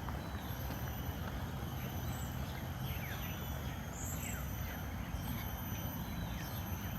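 Tropical garden ambience: a steady high insect drone with short falling bird chirps scattered through it, over a constant low rumble.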